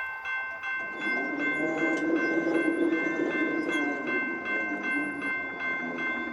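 Railroad grade-crossing bell ringing steadily, about two strokes a second, as a train approaches; from about a second in the rumble of the train rolling on the rails joins it.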